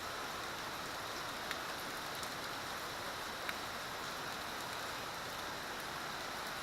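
Steady hiss of heavy rain and rushing runoff water, with a few sharper drop ticks.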